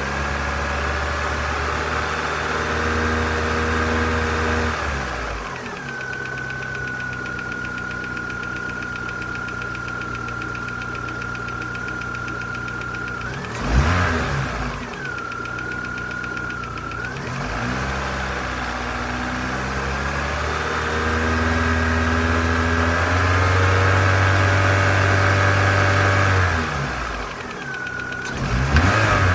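Warm Corsa C 1.4 16V four-cylinder petrol engine running, with a light ticking that grows louder as the engine warms. It is held at raised revs, drops back to idle, and is blipped sharply about halfway through and again near the end.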